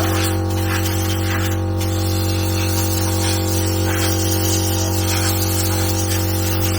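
A machine running steadily with a constant, unchanging hum and some hiss, like a motor or engine held at one speed.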